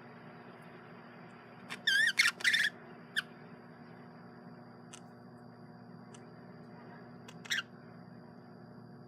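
Male budgerigar chirping: a quick run of loud, warbling chirps about two seconds in, then a short single chirp a second later and another near the end, over a steady low hum.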